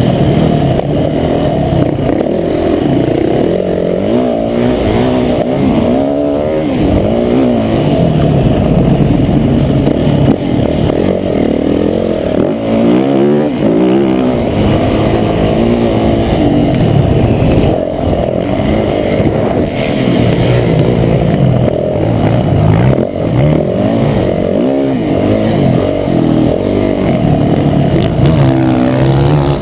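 Motocross bike engine revving hard and dropping back again and again as the rider accelerates, shifts and brakes around the track, heard muffled from on board the bike.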